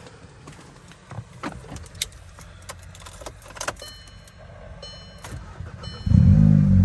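A run of small clicks and knocks, like keys and door handling, then a repeating electronic warning chime from the dashboard. About six seconds in, the tuned Volkswagen Passat R-Line's engine starts and runs on loudly.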